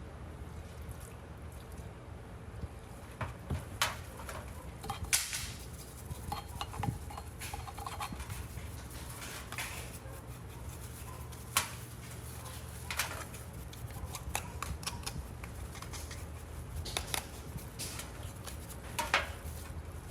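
Scattered clinks and clacks of metal parts and hand tools being handled, a few sharper knocks among them, over a steady low hum.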